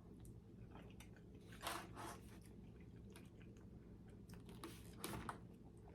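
Faint chewing and mouth sounds while eating, with a couple of short, slightly louder moments of biting or crunching.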